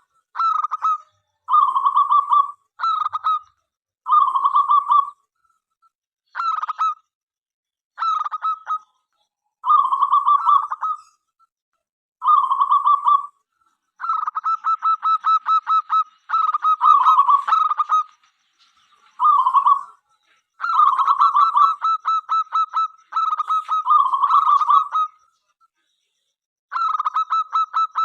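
Zebra dove (local perkutut) cooing song, phrase after phrase with short pauses between. Some phrases are a single burbling coo about a second long, others a quick run of many short staccato notes ending in a coo.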